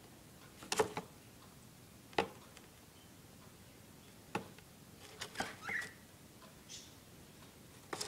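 Small bird moving about in a cardboard box: a handful of light, scattered taps and scratches on the cardboard, with a brief squeak among a quick cluster of taps a little past the middle.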